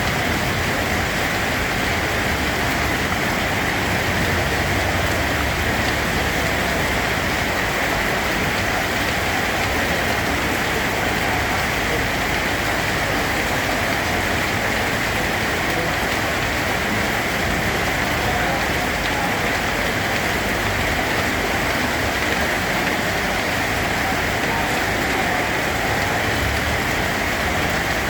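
Steady rain falling, an even, unbroken hiss of drops that holds the same level throughout.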